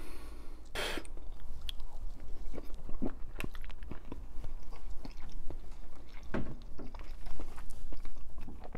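A man chewing and swallowing a spoonful of chicken noodle soup, picked up close by a clip-on microphone on his shirt: scattered small wet mouth clicks and chewing noises, with one short louder noisy sound about a second in.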